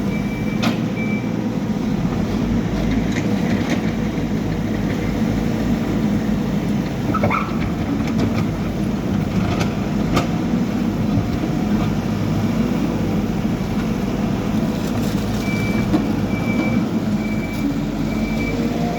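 Backhoe loader's diesel engine running steadily under work, with a few sharp knocks and clanks. Its reversing alarm beeps about twice a second at the start and again in the last few seconds.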